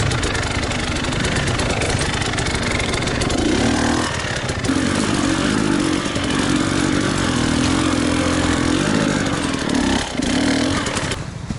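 KTM enduro motorcycle engine running under load. It dips briefly about four seconds in and again about ten seconds in, then falls quieter near the end.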